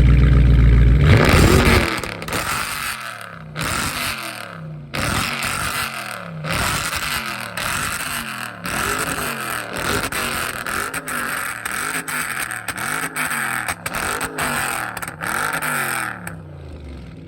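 Dodge Charger Scat Pack's 6.4-litre 392 HEMI V8, with its mid-muffler and resonators deleted, being revved in place: a loud, deep burst first, then about a dozen quick revs roughly one a second, each rising and falling, with sharp pops and crackles on the overrun from its pops-and-bangs tune. The revving stops shortly before the end.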